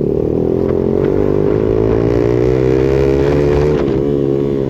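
Yamaha R15 V2's single-cylinder engine running through an aftermarket exhaust. It is revved up gradually, then drops back sharply just before the end.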